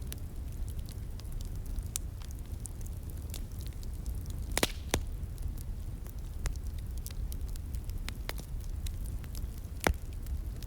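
Wood fire crackling, with irregular sharp pops over a steady low rumble; a couple of louder pops come about halfway through and another near the end.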